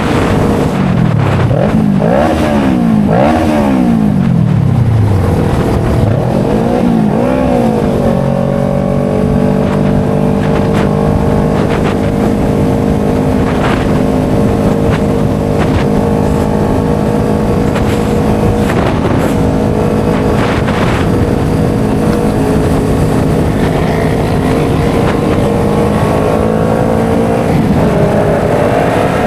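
A motor vehicle engine revs up and down several times, then runs at a steady speed for most of the stretch, its pitch dropping off near the end.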